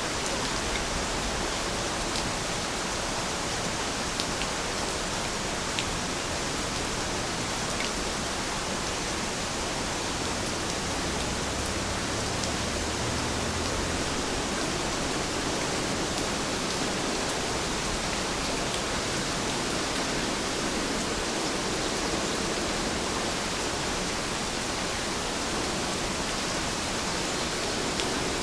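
Heavy rain falling steadily, an even hiss with the occasional sharp drop tick.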